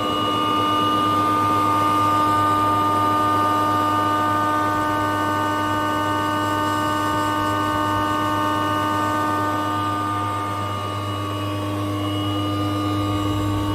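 KP 321 combination woodworking machine (planer-thicknesser, circular saw and spindle moulder) running at steady speed, a constant motor hum and whine.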